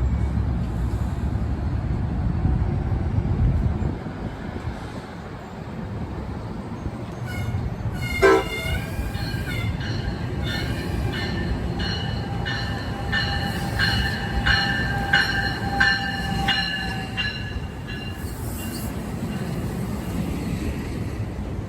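Freight train on the rails: a heavy low rumble that drops off about four seconds in. From about ten seconds on come several high-pitched, wavering metallic tones that pulse together for some seven seconds.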